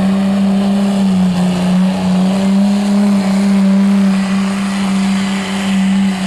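Pulling vehicle's engine running flat out at a steady high pitch under heavy load as it drags the weighted sled down the track.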